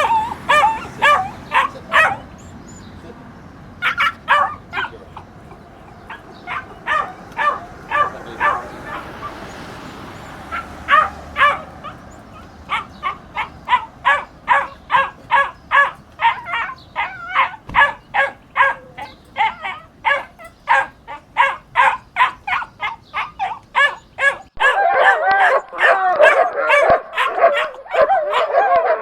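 Puppies yapping: runs of short barks with brief pauses, then a fast steady string of yaps several a second. About three-quarters through, a different, denser stretch of overlapping yelps and whines starts abruptly.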